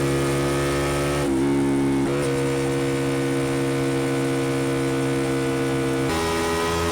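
Honda XL125V Varadero's 125cc V-twin engine running through an aftermarket Black Widow exhaust while being ridden, holding a steady note that steps abruptly in pitch a few times: once right at the start, again about a second in, and once more near the end.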